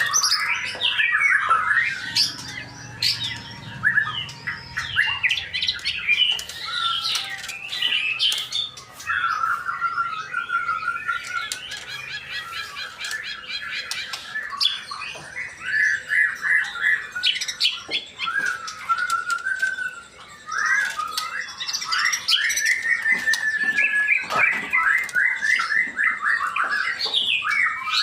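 Male white-rumped shama (murai batu) singing on and on: fast, varied phrases of whistles, trills and rapid chattering note series, with a couple of brief pauses.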